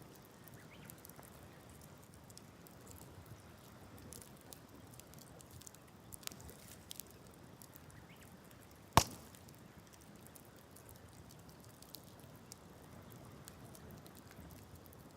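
Wood campfire crackling softly over a low, steady hiss, with scattered small ticks and one sharp, loud pop about nine seconds in.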